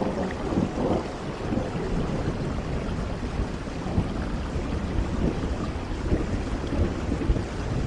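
Continuous rainstorm sound: steady rain with a low, rolling rumble underneath.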